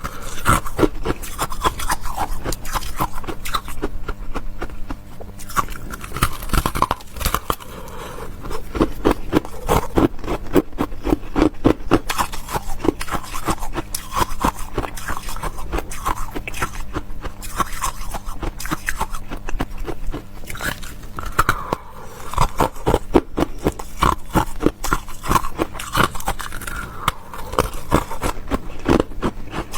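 Close-miked chewing and biting of crisp food: a dense, uneven run of crunches and mouth clicks.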